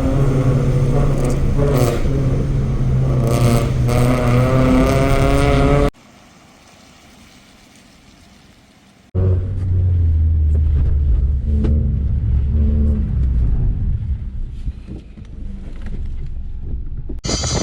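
Modified car engine running through its exhaust, its pitch wavering with the throttle, then cutting off suddenly to a quiet stretch of about three seconds. A deeper, steadier engine note follows and eases off somewhat near the end.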